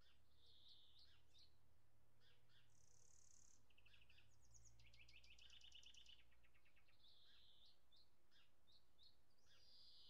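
Faint birdsong: several short chirps and whistles, with a rapid trill about halfway through, over a steady low rumble.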